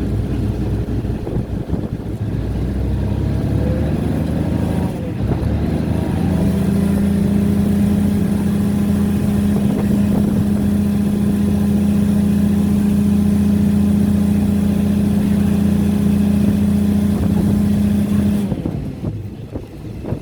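Diesel train engine running, rising in pitch about four seconds in and then holding a loud, steady deep hum that cuts off sharply near the end.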